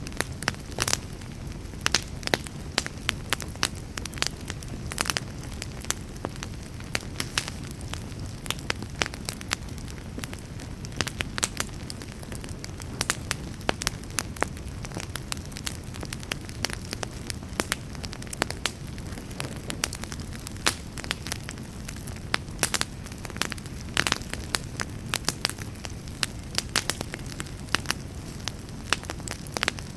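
Wood campfire crackling: irregular sharp snaps and pops, many per second, over a steady low rumble.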